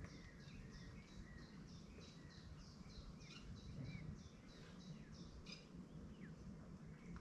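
A small bird singing faintly: a long, even run of short high notes, each dropping in pitch, about three a second, stopping about five and a half seconds in. Under it runs a low, steady outdoor rumble.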